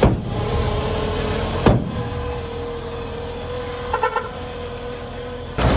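Bulldozer's diesel engine running steadily, with a steady whine over the engine note and a few light clicks about four seconds in; near the end it gets suddenly louder and deeper.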